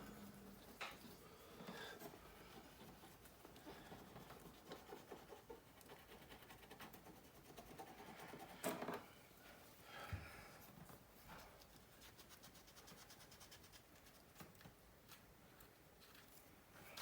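Faint scratching and rubbing of a cotton swab scrubbing old adhesive off a phone's frame, with a sharp click about nine seconds in.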